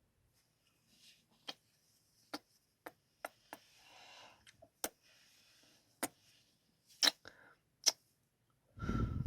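Close-mic ASMR kissing sounds: about nine sharp lip smacks spaced irregularly, with soft breaths between them and a louder, lower breathy sound near the end.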